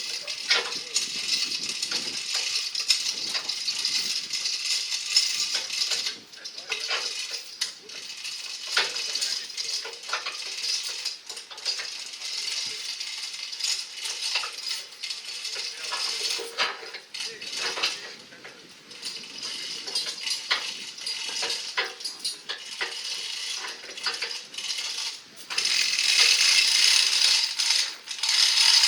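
Continuous rapid mechanical clicking and rattling, like a ratchet being worked, louder near the end.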